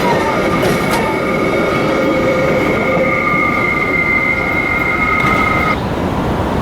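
A Metra commuter train rolling past on the station tracks, its wheels squealing in a steady high screech over the rumble of the cars; the squeal cuts off near the end while the train keeps rolling.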